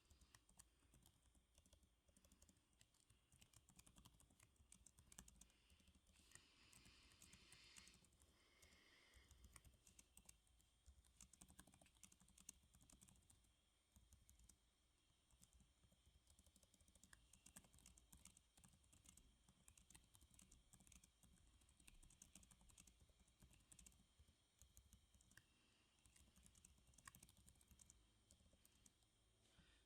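Faint typing on a computer keyboard: a continuous, irregular patter of key clicks.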